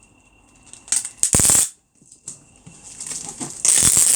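Packing tape pulled from a tape gun and pressed onto a cardboard box: a short tearing screech about a second and a half in, then a longer one starting near the end.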